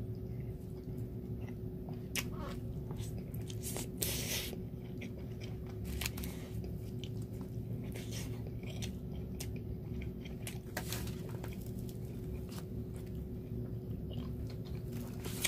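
A person chewing a mouthful of Thai glass noodle salad (yam woon sen): irregular wet mouth clicks and smacks scattered throughout, over a faint steady hum.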